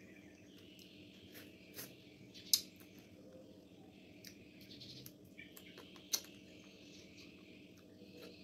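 Eating sounds: quiet chewing with scattered sharp clicks and crackles, the two loudest about two and a half and six seconds in, as a chocolate-and-almond coated Magnum ice cream bar is bitten and chewed.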